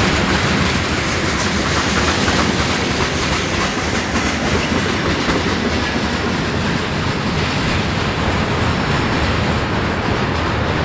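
Long Norfolk Southern freight train rolling past, its wheels running steadily and loudly on the rails.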